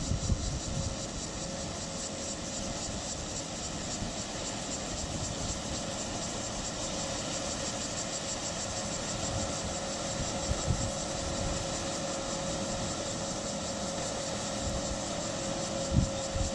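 Rice combine harvester running steadily, its engine and machinery making a constant drone, with a few brief low bumps.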